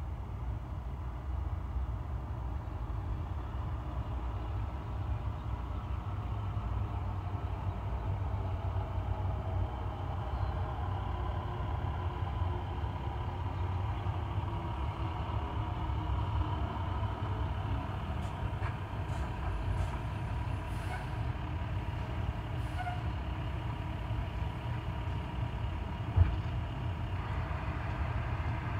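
Train going by: a steady low engine rumble with a faint whine that rises and falls in pitch, and a single sharp knock near the end.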